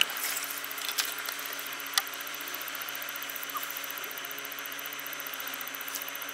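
Car engine idling, heard from inside the cabin: a steady low hum under a hiss, with a few sharp clicks about a second apart in the first two seconds.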